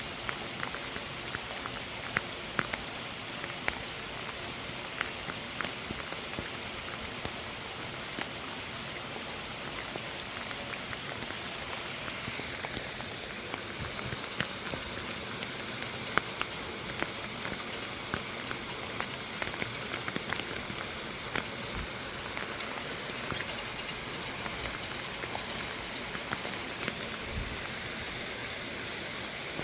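Steady rain falling, an even hiss with scattered sharp drips and taps of individual drops, getting a little heavier about halfway through.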